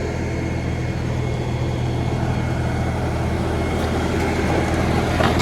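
LS compact tractor's diesel engine running steadily under load while its grader teeth drag through hard-packed gravel, with gravel scraping that grows louder toward the end and a few sharp crunches near the end.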